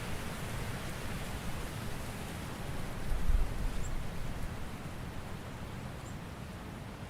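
Autumn forest ambience: a steady rustling hiss of wind and leaves, with a low rumbling gust swelling about three seconds in as the loudest moment. A couple of faint high chirps sound later on.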